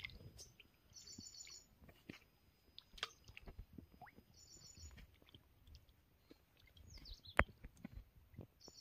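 Birds calling: a short, high, rapidly pulsed call comes three times, about every three and a half seconds, among scattered faint chirps. A single sharp click sounds about seven seconds in.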